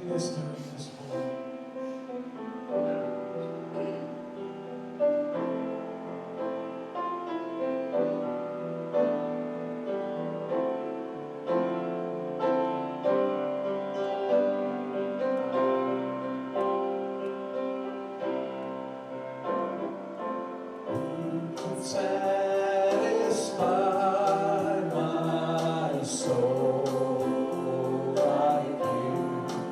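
Gospel worship music: voices singing together over piano and keyboard chords. About twenty seconds in, drums and cymbals come in and the music grows fuller and louder.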